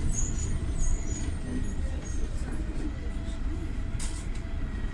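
Steady low rumble of a PAZ 320414-04 city bus's YaMZ-53423 compressed-natural-gas engine, heard inside the passenger cabin, with a brief hiss about four seconds in.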